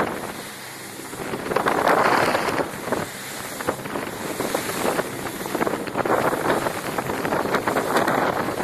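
Wind buffeting the microphone over rushing water, swelling and easing every second or two, loudest about two seconds in.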